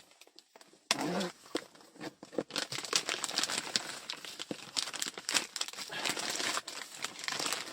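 Packaging crinkling and rustling as a delivery parcel is handled and unpacked: after about a second of quiet, a run of irregular rustles and sharp clicks.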